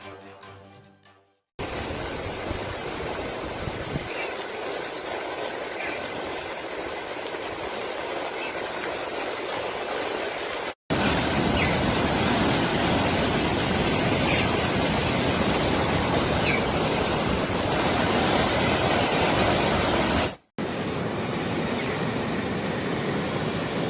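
Steady hiss of heavy rain and running water, in three stretches joined by abrupt cuts about a third and about five-sixths of the way in, the middle stretch loudest. Music fades out in the first second or so.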